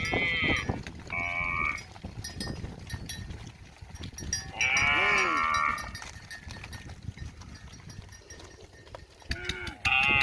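Cow mooing in separate calls, four in all, the longest and loudest about halfway through.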